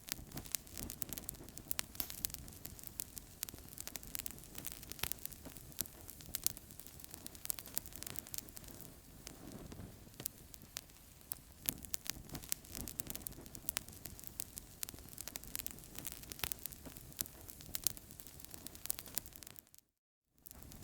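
Wood fire crackling in a fireplace: frequent sharp pops and snaps of varying loudness over a low steady rush of flames. The sound cuts out for a moment near the end.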